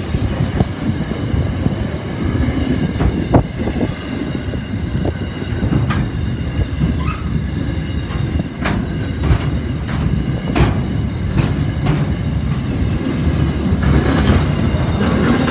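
Freight train wagons rolling past with a heavy, steady rumble, broken by irregular sharp clacks as wheels cross rail joints, and a faint high steady ringing above.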